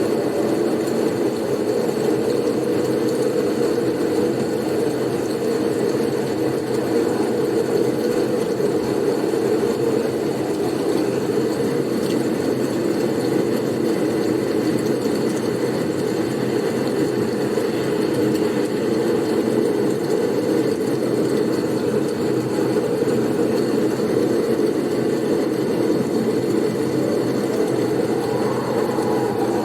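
Blizzard wind noise: a steady, even low rush of wind with no gusts or breaks.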